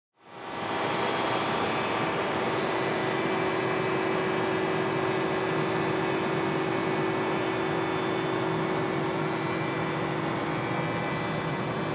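Heat-pump air conditioning of a Mitsubishi Outlander PHEV running: the electric compressor and fan start up just after the beginning and settle into a steady, fairly loud whir with a steady hum.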